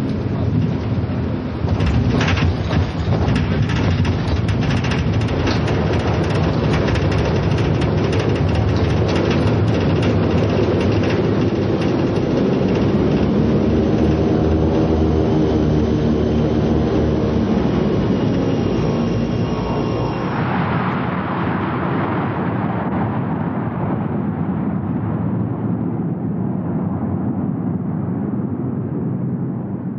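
Four-engined aircraft landing on blue ice without brakes: loud engine and airframe noise with repeated clattering knocks through the first ten seconds as it touches down and rolls over the ice. The engine pitch sweeps up and down around the middle, then the noise dies away gradually over the last ten seconds as the aircraft slows.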